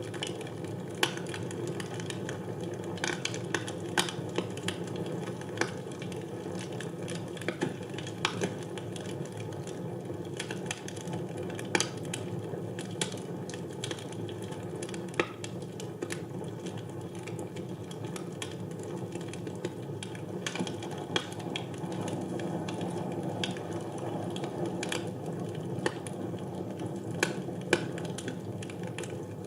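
Wood fire burning in a fireplace: a steady low rush of flame with sharp crackles and pops at irregular intervals, several of them louder snaps.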